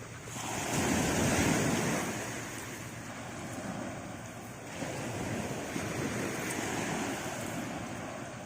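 Sea waves washing up on the shore, surging twice, with wind buffeting the microphone.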